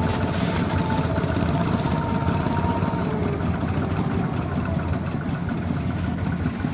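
Small tractor's diesel engine running steadily, with a faint thin whine that fades out about halfway through.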